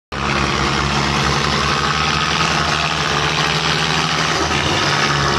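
Belarus 510 tractor diesel engine running steadily, its low note shifting a little before the end.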